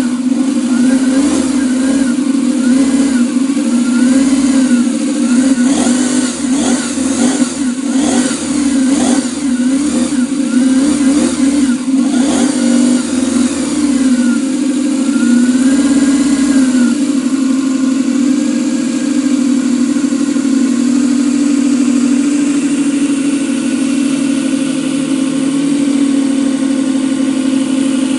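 Miniature 45 cc V8 model engine running, its revs rising and falling in repeated blips with a few sharp crackles in the middle, then settling to a steady even run for the second half.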